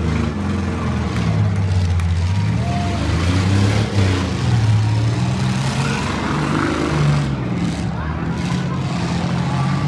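Demolition derby car engines running on the track, their pitch rising and falling as the drivers rev.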